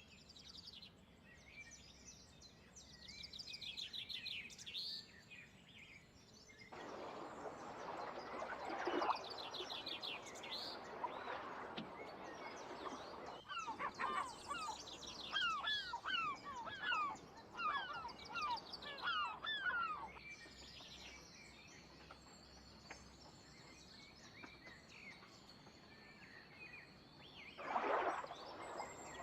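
Several small birds calling and singing, with fast trills and a run of quick rising chirps in the middle, then a thin high tone held steady for several seconds. Bouts of hissing noise come and go underneath.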